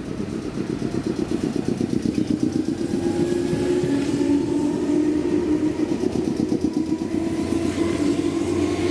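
Electric train running past, a steady motor tone that shifts slightly in pitch over a rapid, pulsing rumble of wheels on rail.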